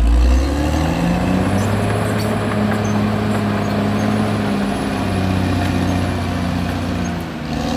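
Caterpillar D6R XL bulldozer's diesel engine working. Its note steps up less than a second in, then runs steadily with small shifts in pitch as the load changes.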